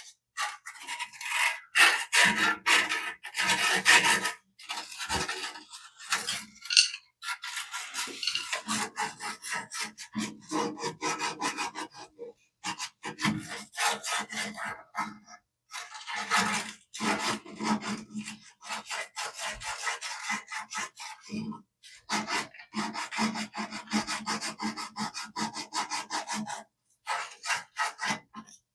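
Abrasive cloth rubbed briskly back and forth on a gas water heater's thermocouple, scraping off rust and corrosion in quick runs of strokes with short pauses between them. The thermocouple is being cleaned because dirt on it is the usual reason a pilot light won't stay lit.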